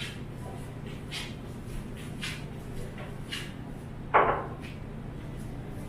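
A single knock about four seconds in, like a cupboard or door being shut, over a steady low hum, with soft short rustles about once a second.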